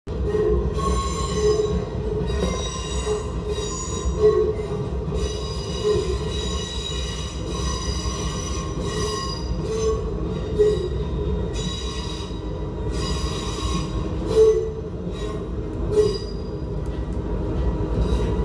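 A train running with a steady low rumble, its wheels squealing in high, multi-toned squeals that start and stop many times.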